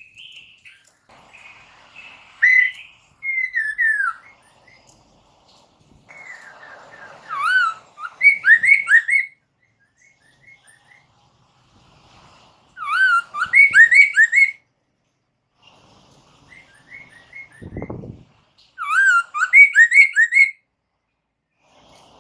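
Poksay mandarin (Chinese hwamei) singing: loud phrases of looping, whistled notes that come in four bursts, about every five to six seconds, with softer notes between. A brief low thump comes about three-quarters of the way through.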